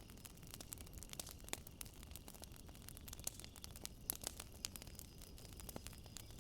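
Wood fire crackling, with irregular sharp pops at varying loudness over a low steady rumble. Faint steady high chirring of night insects such as crickets runs underneath.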